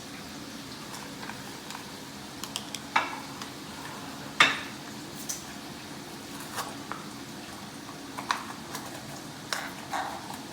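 Scattered clicks and knocks of kitchen containers and utensils being handled while a turkey is seasoned, about a dozen over the stretch, the sharpest about three and four and a half seconds in, over a steady low hum.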